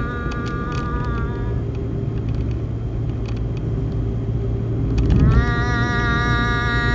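A person toning, holding a steady sung tone on one pitch that stops about a second and a half in; after a pause a new held tone starts near the end, sliding up slightly as it begins. A steady low rumble runs underneath.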